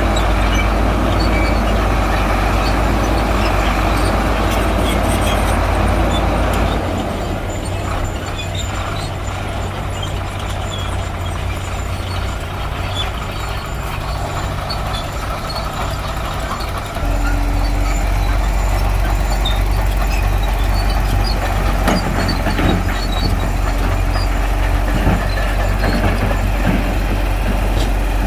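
Shantui crawler bulldozer's diesel engine running steadily. It eases off about a quarter of the way in and comes back up some ten seconds later.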